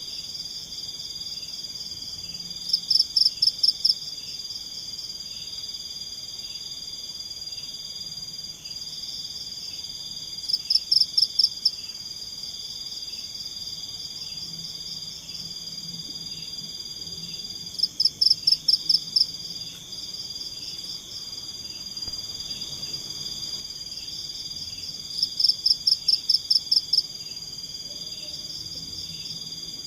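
Forest chorus of insects: a steady high-pitched drone with a fainter pulsing trill under it. Four times, evenly spaced about seven or eight seconds apart, a louder burst of rapid high chirps rings out, each lasting about a second.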